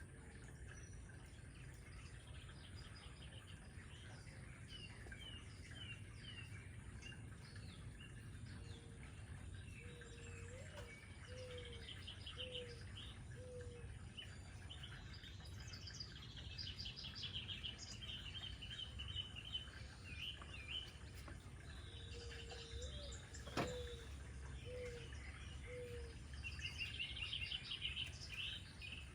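Several birds chirping and calling over a steady low background noise. A series of four or five short lower-pitched notes comes twice, and a single sharp click sounds about two-thirds of the way through.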